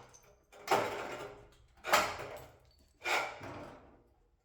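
A damaged car's front fender being forced off its last mounting points, giving three sharp clunks about a second and a quarter apart, each dying away over about half a second.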